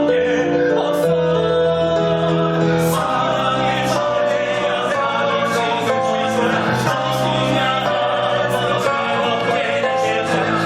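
A live stage-musical number: several voices singing together in chorus over band accompaniment, with short percussive ticks recurring in the highs.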